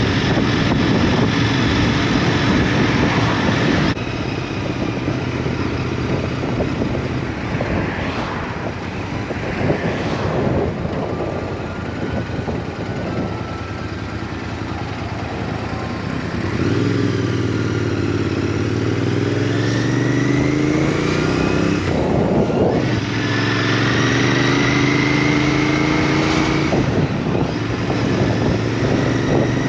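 Motorcycle engine under way, with wind rush over it. The engine pitch climbs as it accelerates, drops sharply a little over 22 seconds in, then climbs again.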